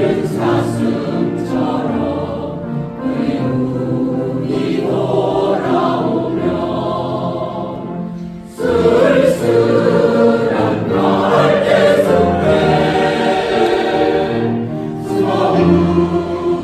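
Mixed choir singing a Korean song in harmony, with a brief pause about eight seconds in before the voices come back in louder.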